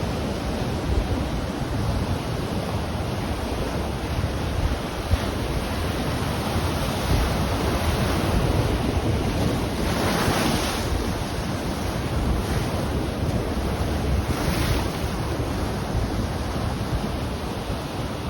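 Ocean waves breaking and washing on the shore, with wind buffeting the microphone. One wave breaks more loudly about ten seconds in, and a smaller one near the end.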